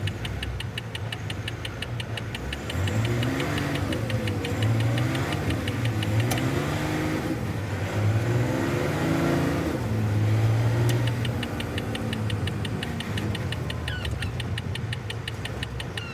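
Semi truck's diesel engine running under way, its revs rising and falling several times in the middle as it pulls.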